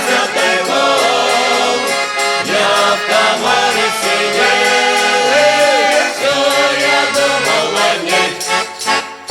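A choir of several voices singing a Russian folk song together, with long held notes that bend in pitch. The singing dips briefly near the end.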